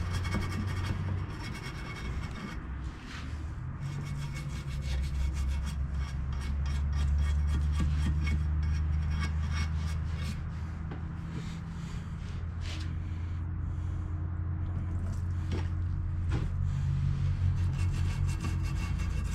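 Rapid hand scrubbing of caked, oily engine grime, a long run of short rubbing and scraping strokes, over a steady low hum.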